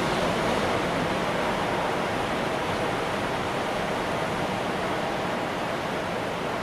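Ocean surf washing in, heard as a steady rushing noise with no distinct breaks.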